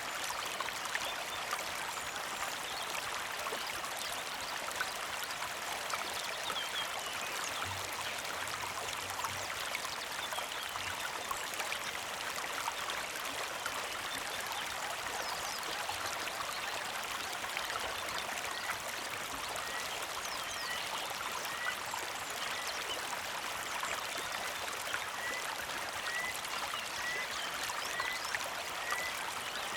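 Small creek flowing and trickling steadily, with birds chirping; from about the middle on, one bird repeats a short high chirp a little faster than once a second.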